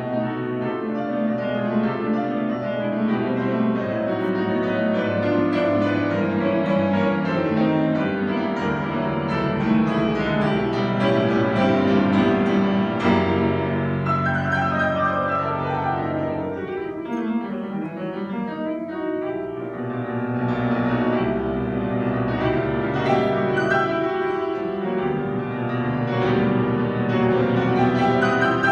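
Solo piano playing classical music, with full sustained chords.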